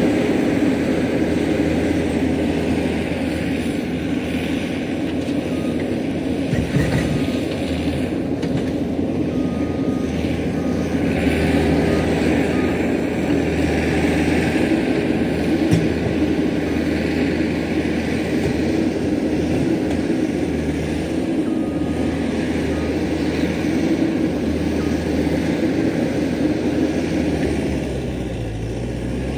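Diesel engine of heavy earthmoving machinery running steadily at working speed, a constant low engine drone.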